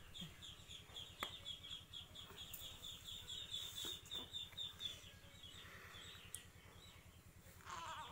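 A bird chirps rapidly, about five short high chirps a second, and stops about five seconds in. Near the end an infant starts to fuss.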